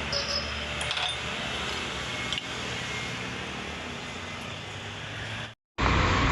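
Steady workshop background noise with a low hum and a few light metallic clinks in the first second and again a little over two seconds in. Near the end the sound cuts out briefly, then returns as a louder ambience.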